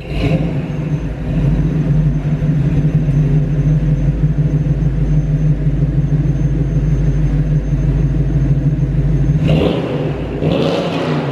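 A motor vehicle's engine runs at a steady speed with a strong low hum. About nine and a half seconds in it drops off, and a rougher, noisier sound follows.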